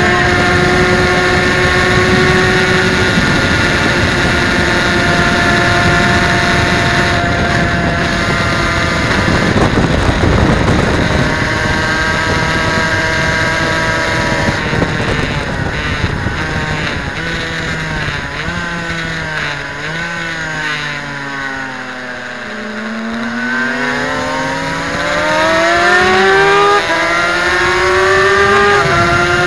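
Suzuki RGV250's two-stroke V-twin engine at race pace, heard from on board. It holds high revs, then its pitch falls for several seconds as the bike slows into a bend, and climbs again as it pulls away.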